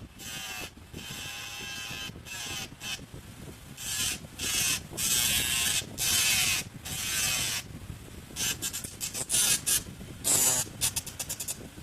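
Homemade mini grinder built from a hard drive's brushless spindle motor, run off a 3-phase ESC, running in repeated bursts of high hissing whine that spin up and stop. Near the end come a quick series of short on-off bursts.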